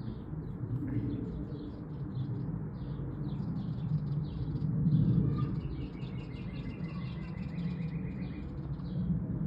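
Birds chirping rapidly and repeatedly, with a run of evenly spaced, slightly falling call notes in the middle, over a steady low rumble that swells about five seconds in.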